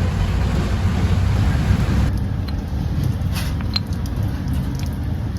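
Steady low rumble of passing road traffic, with a hiss that cuts off about two seconds in, then a few light clicks.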